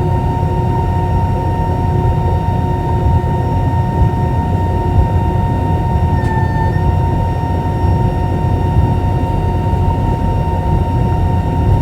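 Airbus A320 cabin noise: a steady low rumble of the engines and airflow with a constant whine of several engine tones. About six seconds in the tones briefly shift for half a second.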